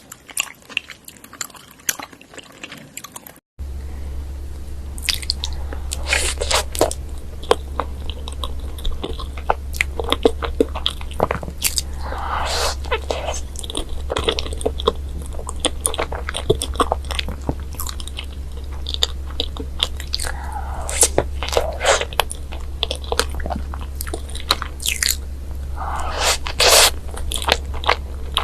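Close-up crunchy biting and chewing of a sweet snack, with many sharp crackling crunches. After a cut about three seconds in, a steady low hum runs under the eating.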